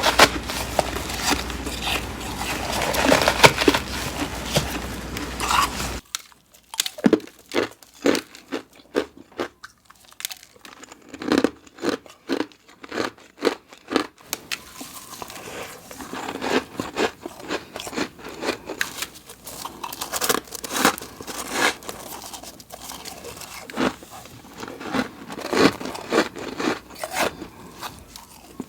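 Flaky freezer frost ice being bitten and chewed close to the microphone, with crisp crackling crunches. For the first six seconds the crunching is dense and continuous over a low hum. After a sudden cut it comes as separate crunches a fraction of a second apart.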